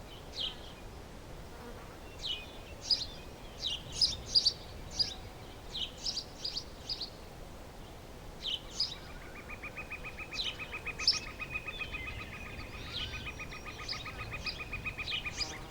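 Outdoor nature ambience: birds chirping in short, separate high calls throughout. From about halfway a rapid, even pulsing trill joins in, about seven pulses a second, and stops just before the end.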